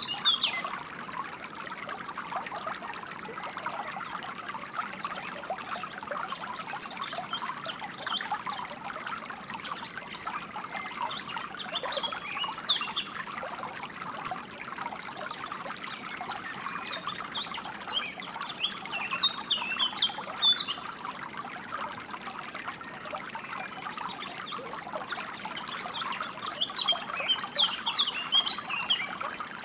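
Water trickling and splashing over stones, with songbirds chirping on top in scattered bursts of short, high notes.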